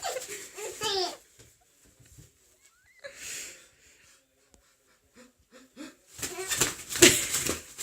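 Baby laughing in wheezy, breathy bursts: a burst of laughter at the start, a quiet stretch with one breathy gasp, then a loud fit of laughter near the end.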